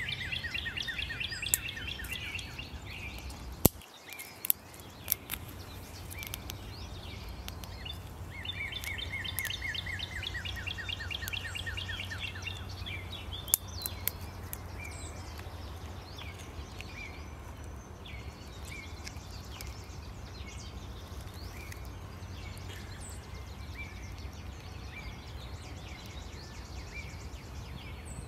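A songbird sings a rapid trill of evenly repeated chirps, falling slightly in pitch, twice for a few seconds each: once at the start and again about eight seconds in. A few sharp clicks and snaps come near the small stick fire, over a steady low background rumble.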